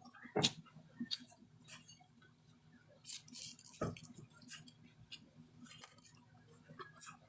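Close mouth sounds of someone chewing crunchy raw vegetables, bitter gourd and cucumber, with many small crisp clicks. Two louder thuds come about half a second in and just before four seconds.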